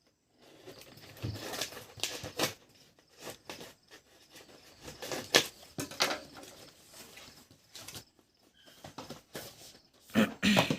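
Delivery packaging being handled and opened: irregular rustling and crinkling of plastic and paper wrapping, with several sharper crackles and rips, the loudest cluster near the end.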